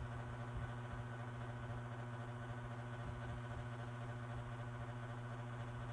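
One-step hot air brush running: a steady motor hum with a rush of air.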